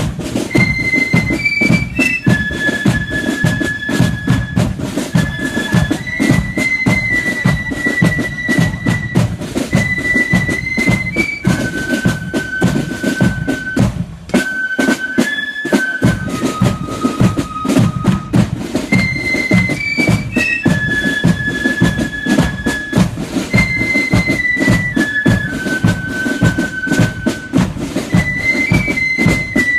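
Marching flute band: flutes playing a repeating tune over a steady beat of bass and snare drums. About halfway through the drums stop for a moment while the flutes carry on.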